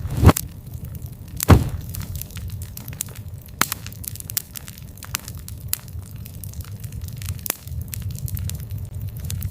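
Campfire crackling steadily with frequent small snaps over a low rumble. Two loud pops come near the start and about a second and a half in.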